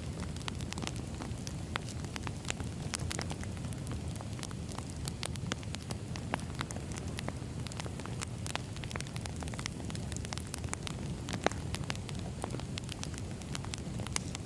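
Firewood burning: a steady low rush of flame under many irregular crackles and pops, with one louder pop about eleven seconds in.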